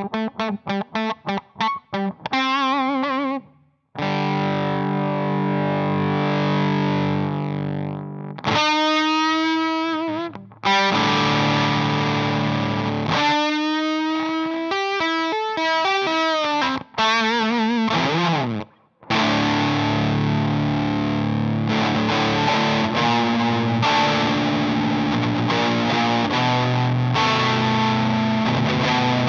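Electric guitar played through an Emmergy FX Flaming Cake Fuzz pedal, a gritty fuzz tone. It opens with fast, short picked notes, then alternates held fuzzed chords with bent, wavering single-note lines, with two brief silent breaks, about 4 seconds in and again near 18 seconds.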